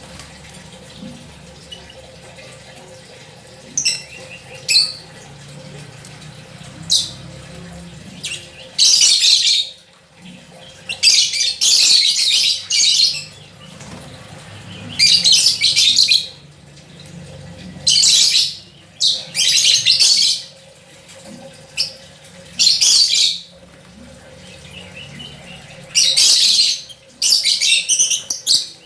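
A songbird singing: repeated loud phrases of rapid high notes, each about a second long, with short pauses between them.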